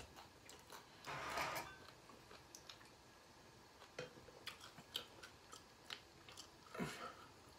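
Faint close-up eating sounds: chewing with scattered light clicks and taps. Two short rushing noises come about a second in and again near the end.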